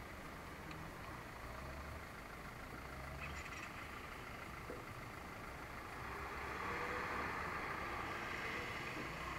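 Suzuki GZ150 motorcycle's single-cylinder four-stroke engine idling while stopped, a low uneven rumble. A broader, slightly louder noise comes up about six seconds in.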